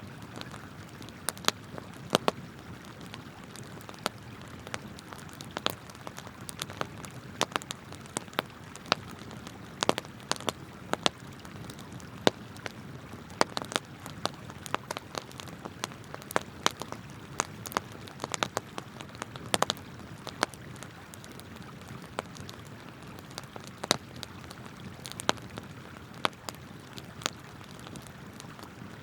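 Wood campfire crackling, with sharp irregular pops a few times a second, over the steady rush of a flowing river.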